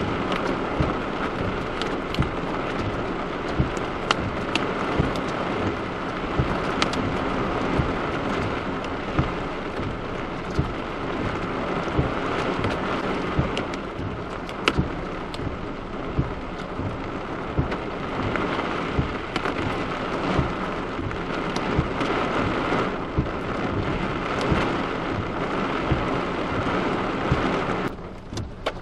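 Heavy rain with hail: a dense, steady hiss of downpour dotted with many sharp ticks of stones striking, which drops off suddenly near the end.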